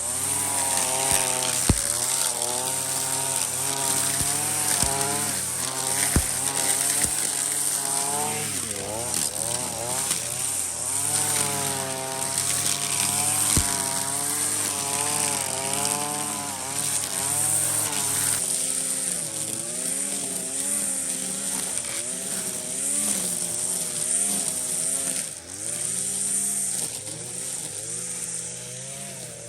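A small petrol engine running under varying throttle, its pitch rising and falling, with a few sharp ticks.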